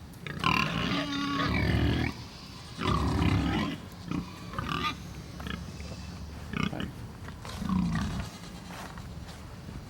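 Big fattened pigs grunting and calling, loudest in two long bouts, about half a second in and again around three seconds in, then short scattered grunts.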